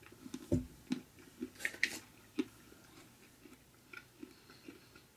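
Biting into a piece of dark chocolate with crystallised ginger and chewing it: a quick run of sharp crunches over the first two and a half seconds, the loudest a pair of crackles just under two seconds in, then only a few soft chewing sounds.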